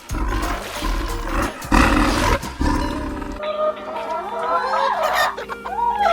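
An animal's rough, noisy calls for about three seconds, then gliding animal cries over steady background music.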